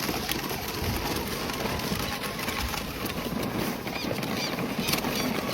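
A few faint bird chirps over a steady rushing noise, with scattered light clicks.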